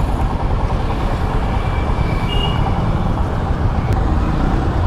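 Royal Enfield Himalayan 411's single-cylinder engine running, heard through the rider's microphone, with steady street traffic noise around it.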